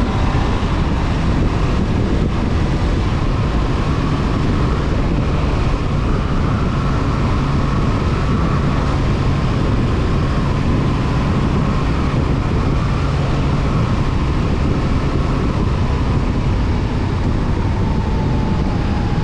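Honda CB500F's parallel-twin engine running at a steady cruise under a constant rush of wind and road noise, its pitch easing slightly lower near the end.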